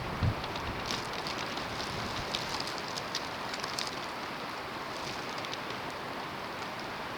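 Snowstorm: a steady hiss of wind-driven snow, with scattered light ticks and one brief low thump just after the start.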